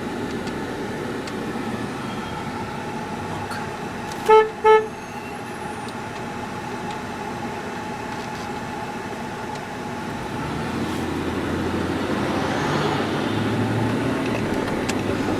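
A car horn beeps twice in quick succession about four seconds in, over steady road traffic noise that grows louder about ten seconds in.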